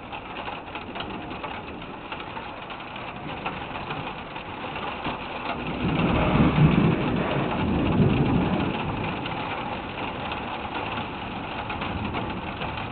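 Steady rain falling during a thunderstorm. About six seconds in, a low rumble swells up and fades over the next few seconds.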